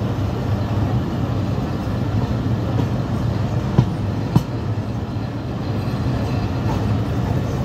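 Bangladesh Railway passenger train running along the track, heard from a coach window: a steady low rumble of wheels on rail, with two sharp clacks a little past halfway, about half a second apart.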